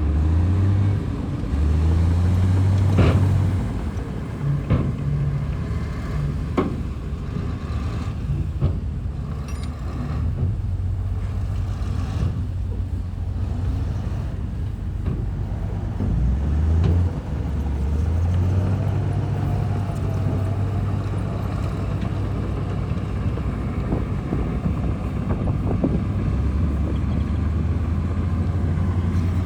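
Bulldozer's diesel engine running under load, its pitch and level shifting up and down as the push changes, with sharp knocks and clanks now and then.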